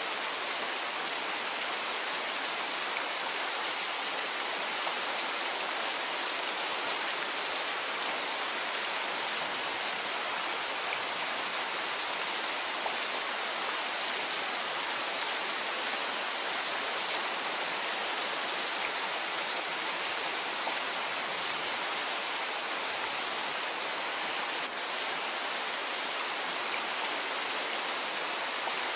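Steady rain: an even hiss with no thunder.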